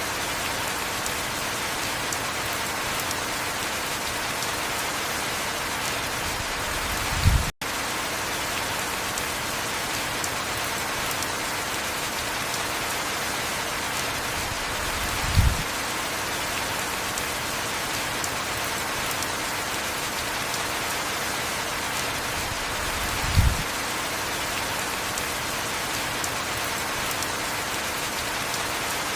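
Steady heavy rain, an even hiss. A short low thump sounds three times, about eight seconds apart, and the sound cuts out for a split second after the first one.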